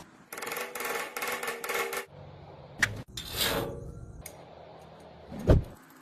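Handling noises of hand work on small parts: a run of about four scraping strokes, a sharp click, a longer scrape, then a short low knock near the end.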